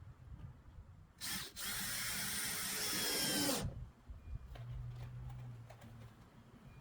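Power drill running: a short blip, then about two seconds of steady running that drops in pitch as it stops.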